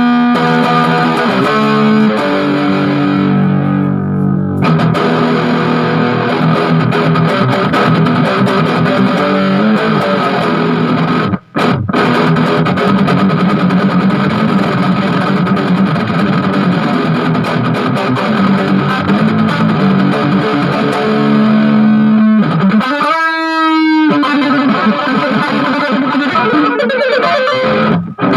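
Distorted electric guitar played through a small Orange Crush 20-watt solid-state practice amp, a continuous loud riff. The playing breaks off briefly about eleven seconds in, and there is a quick upward pitch slide about twenty-three seconds in.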